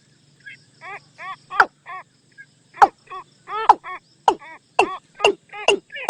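Watercock call used as a decoy lure: a series of repeated hollow notes that starts about half a second in and speeds up, with short arched notes mixed with louder, sharp downward-swept ones.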